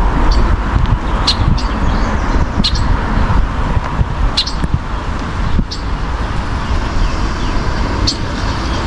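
A bird giving short, high chirps at irregular intervals of a second or two, over a steady low rumble of road traffic.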